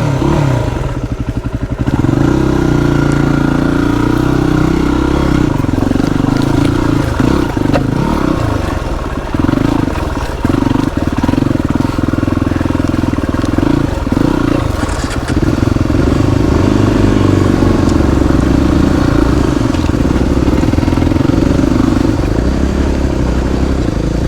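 Motorcycle engine running steadily as the bike is ridden, with a few brief dips in revs around the middle.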